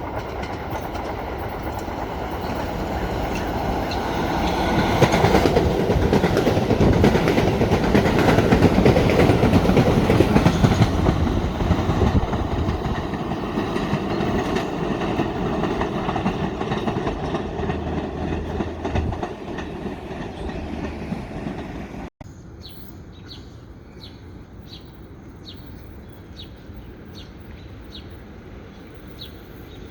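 Staten Island Railway electric train passing, growing louder to a peak about five to eleven seconds in and then fading away. After a sudden cut about 22 seconds in, the sound drops to a quiet background with faint short high chirps repeating about one and a half times a second.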